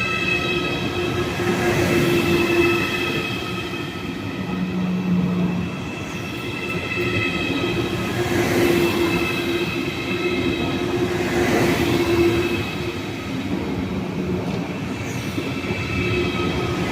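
Train running at a station platform: a continuous rumble with several steady high-pitched tones of wheel squeal over it, swelling and easing every few seconds.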